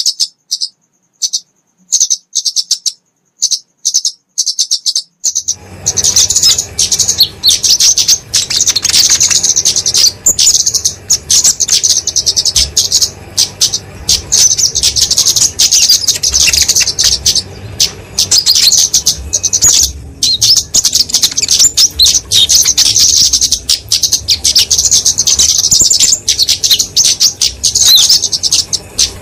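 Flowerpecker (kemade) giving rapid, high-pitched ticking chirps in aggressive fighting-call bursts. For the first few seconds the chirps come as short bursts with gaps of silence. From about five seconds in, the chirping runs nearly non-stop over a low background hum.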